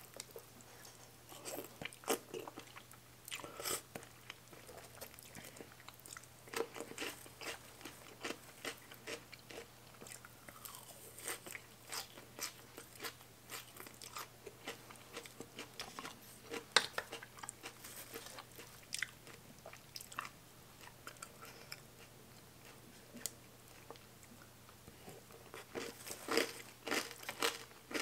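A person eating close to the microphone: chewing and crunching a mouthful of raw greens and rice noodles, in irregular crisp crunches that get busier near the end.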